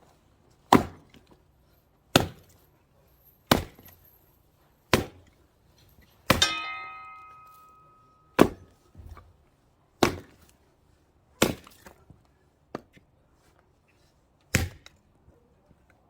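Axe blows splitting a knotty firewood log by hand, about ten sharp chops, roughly one every second and a half. One blow near the middle rings like metal for over a second. The wood is not yet giving way at the knot.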